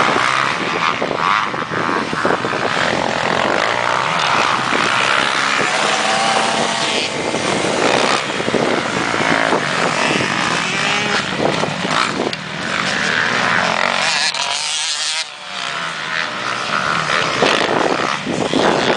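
Honda CRF250R motocross bike's single-cylinder four-stroke engine revving up and down as it is ridden. The engine sound falls off briefly about fourteen seconds in, then picks up again.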